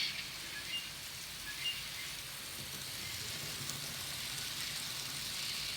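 Steady steam hiss from an N gauge DR 44 steam locomotive model's DCC sound decoder, played through its small onboard speaker, with a faint low hum beneath.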